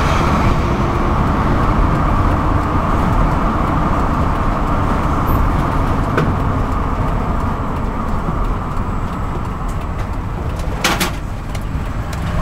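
Steady road and engine rumble inside a moving car's cabin, with a single click about six seconds in and a short sharp noise near the end.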